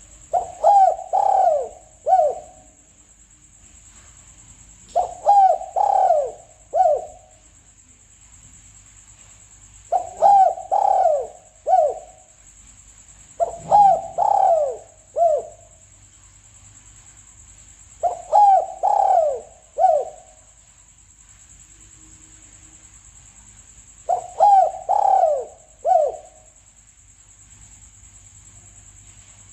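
Spotted dove cooing: six phrases of three or four coos each, spaced roughly four to six seconds apart. It is the repeated call used as a lure for hunting these doves.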